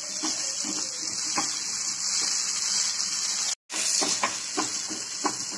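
Small onions, tomato and dried red chillies sizzling in hot oil in a kadai, with a wooden spatula stirring and scraping the pan in short strokes. The sound cuts out for an instant about two-thirds through.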